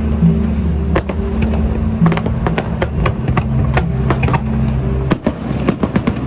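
Fireworks display: irregular sharp bangs and reports from bursting shells, coming thick and fast in a cluster near the end. Music with steady low notes plays underneath.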